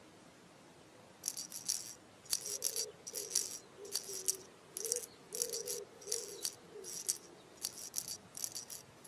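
Rhythmic rattle sound effect, a shaker-like rattle about twice a second, starting about a second in, over a soft wavering low tone.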